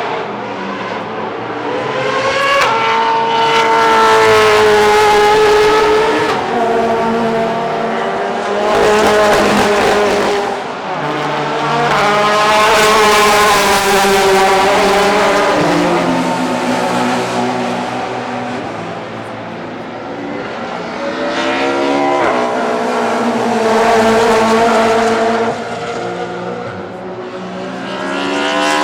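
Historic DTM touring cars racing past one after another, their engines revving up and down through the gears. Several loud passes come in turn, near the start, around nine seconds in, in the middle, and again about twenty-four seconds in.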